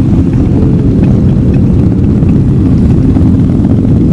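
Motorcycle riding at a steady speed: a loud, even drone of engine and wind rumble picked up by a handlebar-mounted camera microphone.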